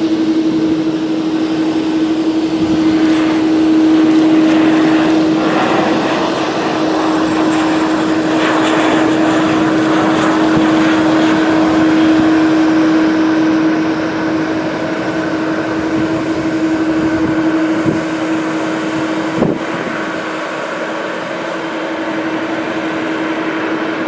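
Jet noise from a Boeing 737-400's CFM56-3 turbofan engines on landing: a loud, steady rushing noise with a constant low hum underneath.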